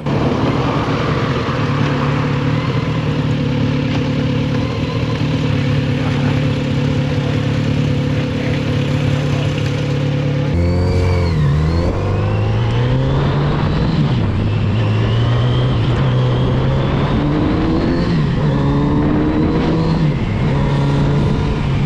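Motorcycle engine running steadily at road speed over wind noise. About halfway through, the note changes abruptly, then dips and climbs and rises and falls several times as the throttle and gears change.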